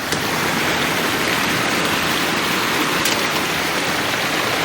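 Steady rushing of river water flowing down the stream above the falls.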